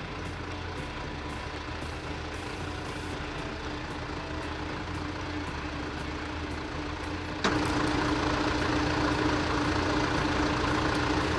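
Heavy equipment engine running steadily while the load is balanced on the trailer, getting suddenly louder about seven and a half seconds in.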